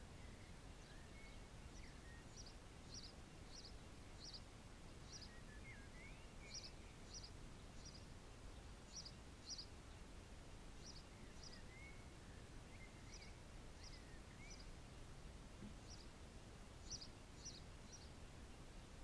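Faint birds chirping: short high chirps, often in pairs, repeating every second or so, with a few brief warbling calls. Under them is a low steady background hiss.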